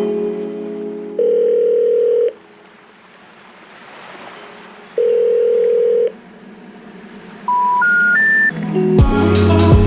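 Telephone ringback tone, two steady beeps about a second long with a few seconds between them. Then three short rising tones, the special information tone that signals a call can't be completed. Music fades out at the start, and loud music with a heavy beat comes in near the end.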